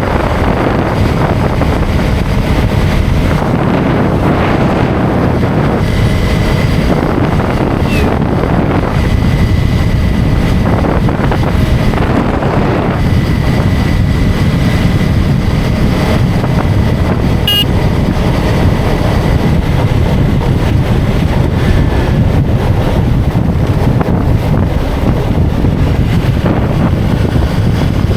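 Motorcycle engine running steadily while riding through traffic, with wind buffeting the microphone.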